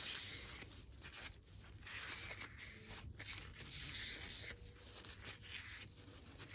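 Wiping a small lawnmower carburettor part clean: a rough rubbing hiss in several strokes about two seconds apart, clearing out dirt.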